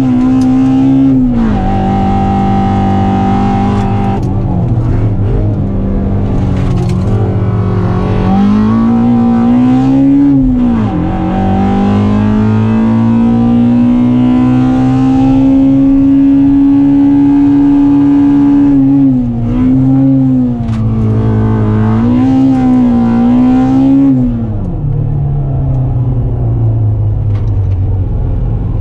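MG ZR 1.4's four-cylinder K-series engine, heard from inside the cabin, driven hard at high revs. The revs climb and drop repeatedly, with one long steady climb in the middle. Near the end they fall away and settle lower.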